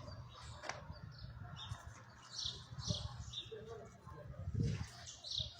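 Birds chirping: a series of short, high calls repeated several times, over a low background rumble.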